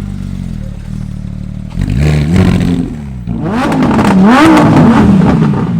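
Car engine idling steadily, then revved from about two seconds in, in a series of blips whose pitch rises and falls with each rev.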